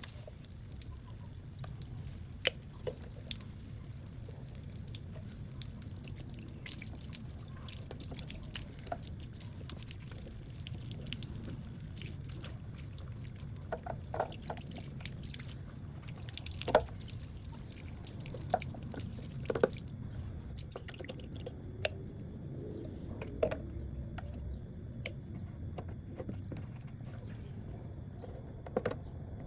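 Water running and dripping from a live, unshut water pipe, a steady low rush with scattered sharp drips, splashes and knocks. The sound turns duller about twenty seconds in.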